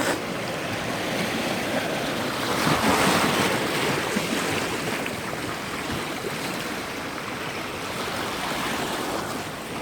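Sea waves breaking and washing along the shore, with one surge of surf swelling louder about three seconds in, and wind buffeting the microphone.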